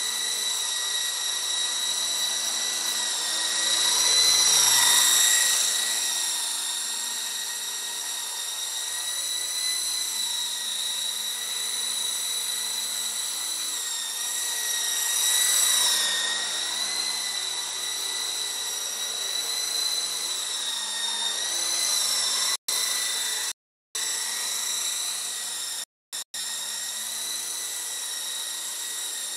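Esky Dauphin RC helicopter's electric motor and rotors whining steadily, growing louder as it passes close about four seconds in and again around fifteen seconds in, the pitch bending slightly with each pass. The sound cuts out briefly a few times near the end.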